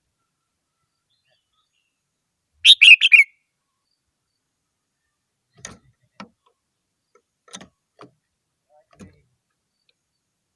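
Red-whiskered bulbul singing one short, loud phrase of quick notes about three seconds in, followed by a few faint clicks.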